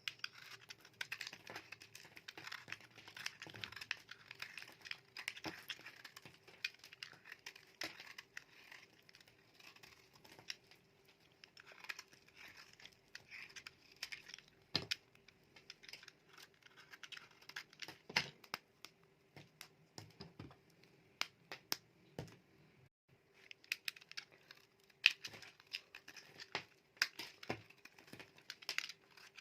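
A knife cutting through dry bars of soap: crisp crackling scrapes and many sharp clicks as the soap breaks, with a brief pause about two-thirds of the way through.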